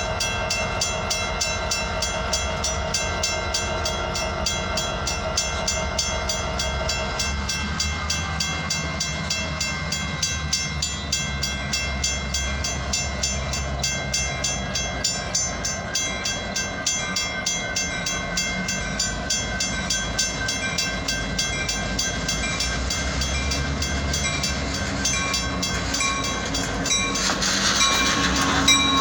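Freight train rolling past, its cars clicking over the rail joints in a steady rhythm. A steady pitched tone slides down in pitch about eight seconds in, and a louder hiss comes in near the end.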